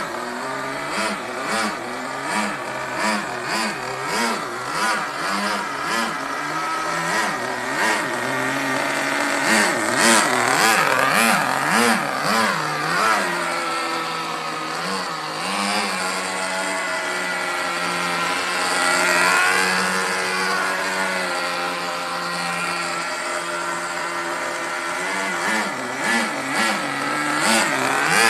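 Small two-stroke nitro glow engine of an HSP Backwash RC buggy running, its speed rising and falling in a regular rhythm a little faster than once a second. About a third of the way in it revs up to a higher pitch and holds there for several seconds, then drops back to the rhythmic up-and-down near the end.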